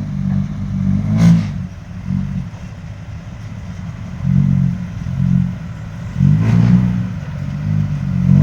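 Heavy truck engine revving in repeated surges as it pulls away. There is a sharp burst of noise about a second in and another near six and a half seconds.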